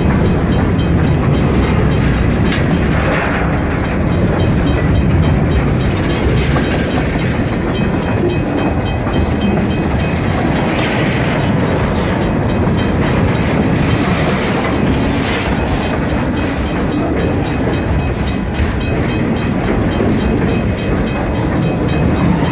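Freight train rolling by, a steady rumble of wheels on rail with faint clickety-clack.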